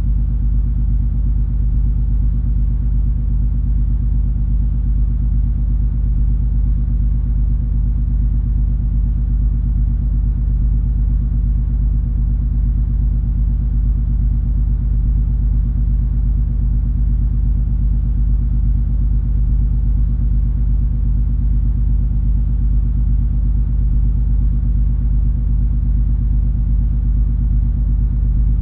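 Steady low droning rumble of the cruise ferry MS Color Magic under way, its engines and machinery running with a faint hiss above.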